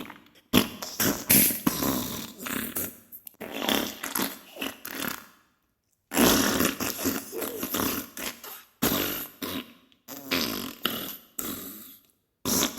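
Diarrhea sound effect: a run of wet, spluttering fart bursts of a second or two each, with short pauses between them.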